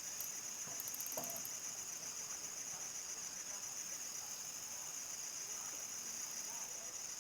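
Crickets chirring in a steady dense chorus at nightfall in the countryside, with a higher, faster pulsed trill from another insect briefly about a second in and a faint short call just after.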